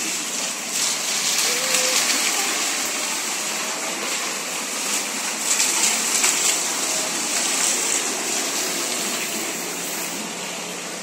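Heavy rain falling in a steady, dense hiss. It swells a little about two seconds in and again around the middle, then eases slightly near the end.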